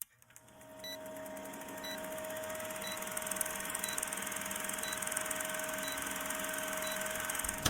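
Short electronic beeps about once a second over a steady tone and a hiss that swells up over the first two seconds, then cuts off sharply.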